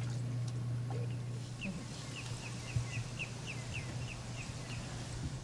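A bird calling outdoors in a run of short, falling chirps, about two or three a second, over a steady low hum.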